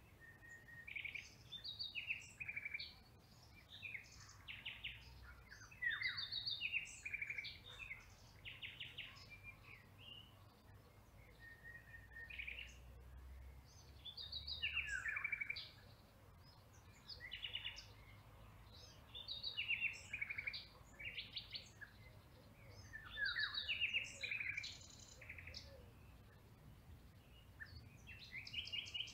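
Songbirds singing: clusters of quick chirps and fast trilled phrases, pausing and resuming every few seconds.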